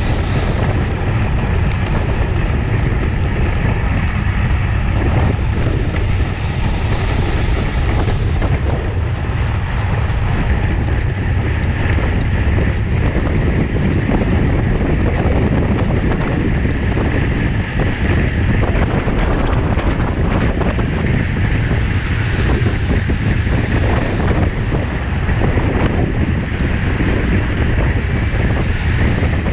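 Steady, heavy wind rushing over the microphone of a racing cyclist's camera at race speed.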